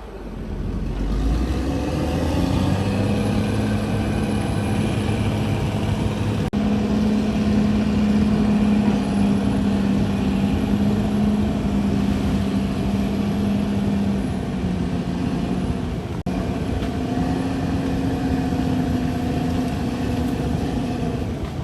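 CAT D6R XL bulldozer's diesel engine running steadily under load, its pitch shifting slightly about two-thirds of the way through.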